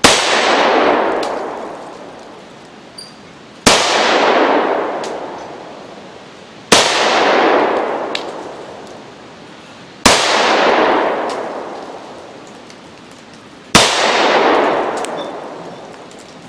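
Romanian TTC Tokarev pistol (7.62×25mm) fired five times, slow single shots about three to four seconds apart, at a steel spinner plate. Each loud shot and plate strike is followed by a long fading ring of about two seconds.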